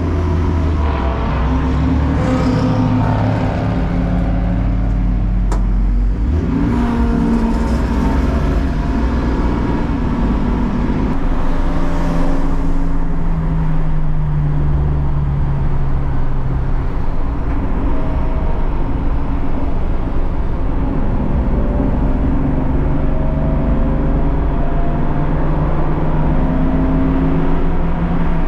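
BMW race car engine driven hard on track, accelerating and shifting through the gears, its pitch repeatedly climbing and then dropping back.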